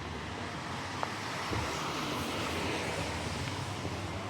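Street traffic noise: a passing vehicle swells and fades in the middle, with a single sharp click about a second in.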